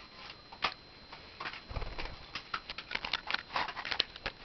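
Budgies pecking, a run of quick, irregular beak taps and clicks.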